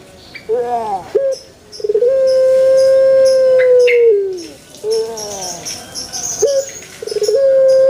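Male puter (Barbary dove) cooing: a few short rising-and-falling notes, then a long held coo that drops in pitch at its end. The pattern comes twice, with the second long coo starting near the end. Faint high chirps sound in the background.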